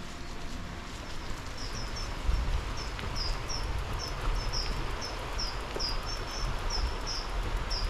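A small bird calling in a series of short high chirps, a few each second, starting about a second and a half in, over the steady rushing noise of a shallow river and a low rumble.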